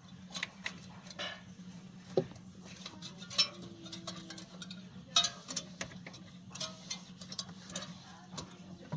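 Hand tools and small metal parts being handled during a repair: irregular sharp clicks and light taps over a steady low hum.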